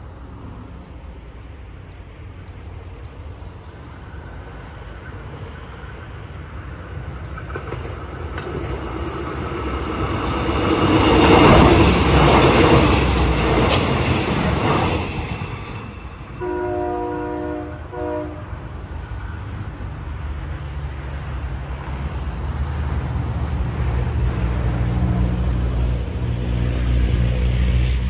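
A passenger train passing close along the platform, the running noise of its wheels and engines swelling to a loud rush about eleven to fifteen seconds in, then easing off. A train horn sounds one steady chord for about two seconds just after the loud part. A low engine rumble builds near the end.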